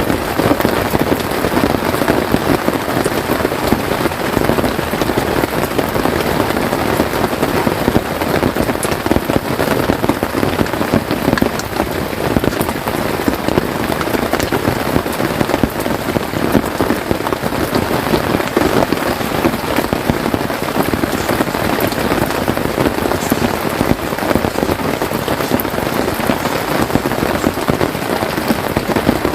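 Steady heavy rain pattering on a tent, a dense, even hiss of countless drops.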